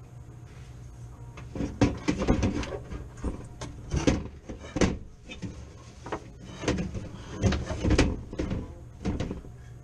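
Irregular clicks, knocks and rattles of hand work on an HVAC unit's electrical compartment: tools, wires and parts being handled, over a steady low hum.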